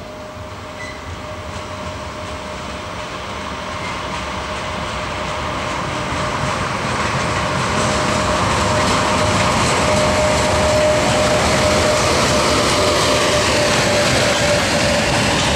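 EP1M AC electric locomotive hauling a passenger train, drawing near and passing, its running noise growing steadily louder. A thin, steady high whine sounds through it.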